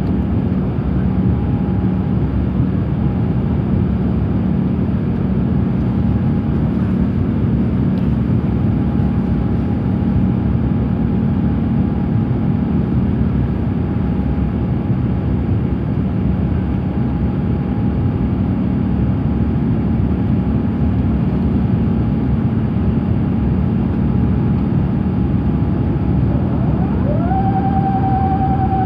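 Steady roar of airflow and engine noise inside the cabin of an Airbus A350-900 in flight, with a low steady hum under it. Near the end a tone glides upward and then holds steady.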